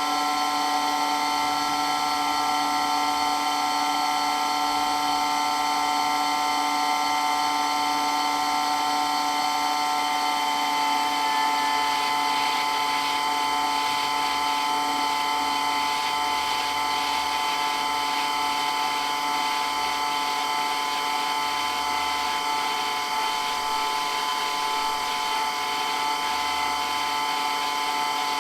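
Water pump for a water blaster running steadily with a loud, even whine made of several constant tones over a hiss. The tones shift slightly about eleven seconds in.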